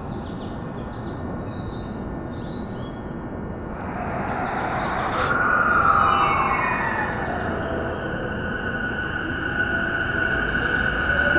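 Electric train's motors whining on an enclosed station platform over a steady rumble. The sound swells from about four seconds in with a whine that falls in pitch, then a new whine starts rising in pitch near the end.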